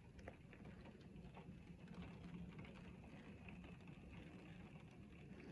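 Faint, steady rain falling in a thunderstorm, a low even hiss with a few light drip ticks.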